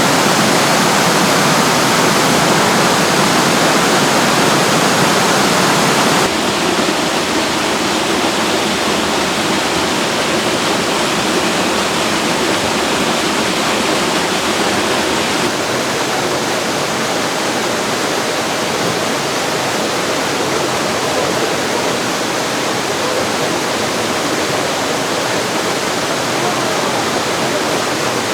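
Mountain valley stream rushing, a steady loud noise of running water. It drops in level and changes in tone abruptly twice, about six and fifteen seconds in.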